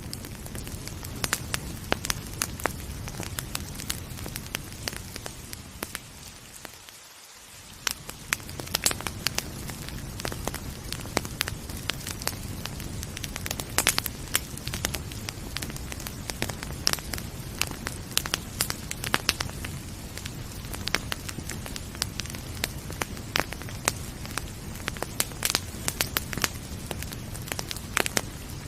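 Wood fire crackling, with frequent sharp pops over a steady low rumble, and the hiss of rain underneath. The low rumble fades out briefly about seven seconds in.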